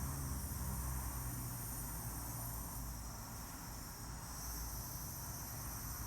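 Voices holding a long hissing 'sss' on the out-breath as a breathing exercise, with a short break about four seconds in, over a low hum.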